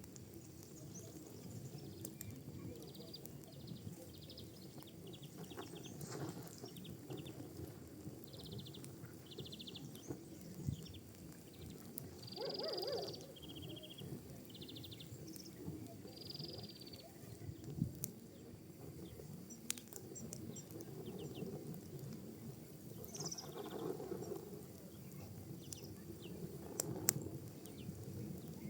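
Wood and pinecone fire crackling: a low steady rustle with sharp pops now and then, the strongest about 18 and 27 seconds in. Short high chirping trills come and go several times above the crackle.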